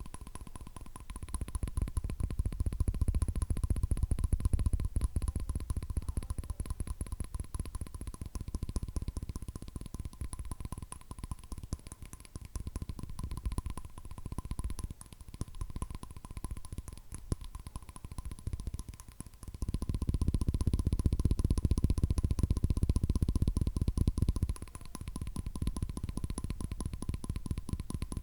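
Fingernails tapping very fast on hard objects close to a recorder, a dense unbroken run of taps. The taps turn deeper and heavier for a few seconds near the start and again about two-thirds of the way through.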